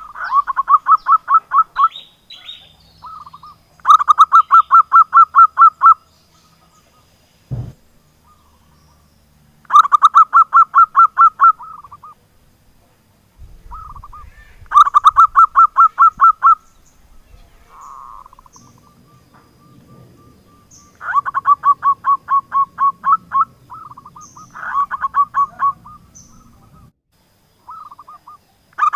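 Zebra dove (perkutut) cooing: about six phrases of rapid, evenly pulsed coo notes, each phrase lasting a second or two, with short pauses between.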